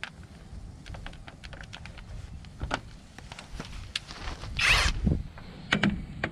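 Hand tools and metal parts clicking and clinking in irregular short strokes, with one brief hiss a little past halfway.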